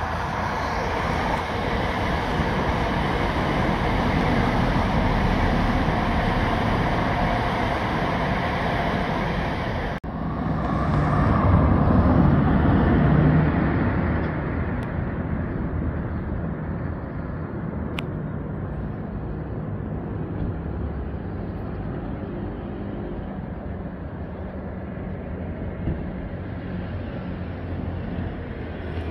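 Class 377 electric multiple unit passing on the line below, a steady rumble of wheels and running gear. After a sudden cut about ten seconds in, the rumble swells again and then slowly fades as a train draws away.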